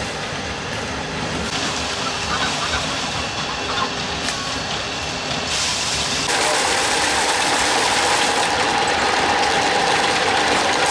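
A motor running steadily, turning louder and harsher about six seconds in.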